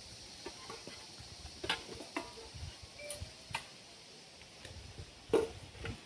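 Irregular light knocks and clicks, about eight of them, the loudest a little past five seconds in, over a steady high hiss.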